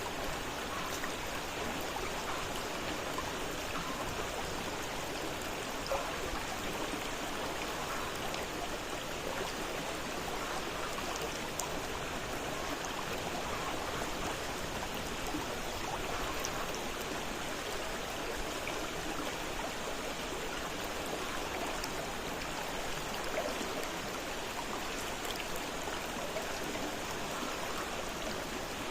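A fast-flowing river rushing and splashing over rocks, a steady churning water sound with small splashes now and then.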